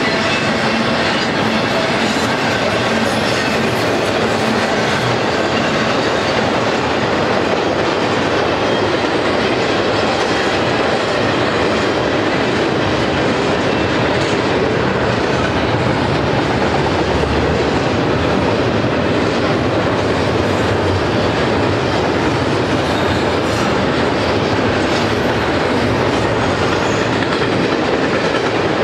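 A long BNSF intermodal freight train of double-stack container and trailer cars rolling past: a steady rumble and clatter of steel wheels on the rails.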